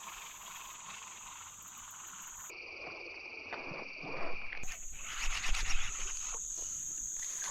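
Insects buzzing steadily in a high, even drone. In the middle, for about two seconds, this gives way to a lower steady buzz. Some louder irregular rustling follows in the second half.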